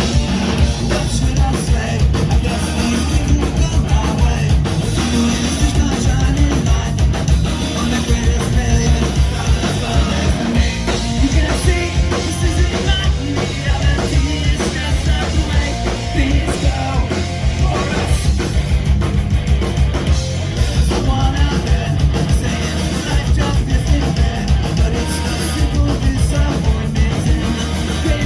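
A rock band playing loudly, with a driving drum kit and singing, in a punk rock style.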